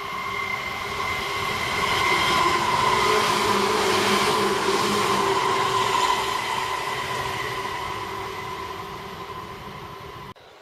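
Electric commuter train passing, growing louder to a peak in the middle and then fading, with steady high whining tones over the rumble. The sound cuts off abruptly near the end.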